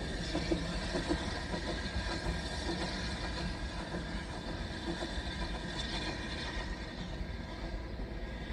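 Steam-hauled heritage train running with a steady rumble that slowly fades.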